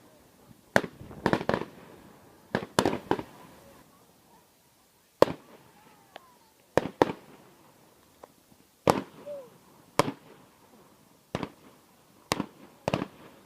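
Fireworks exploding: sharp bangs at irregular intervals, about fifteen in all, some coming in quick clusters of two or three, each with a short echoing tail.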